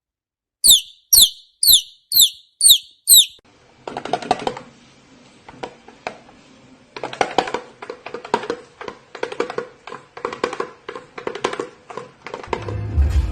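A parrot gives six sharp chirps in quick succession, each falling steeply in pitch. These are followed by a long run of rapid clicking and scratchy chatter over a faint steady hum.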